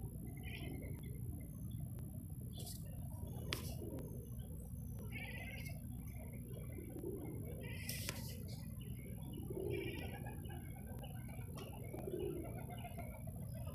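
Small birds chirping on and off, with a dove giving three low coos about seven, ten and twelve seconds in, over a steady low background hum. A few sharp clicks stand out near the start and about eight seconds in.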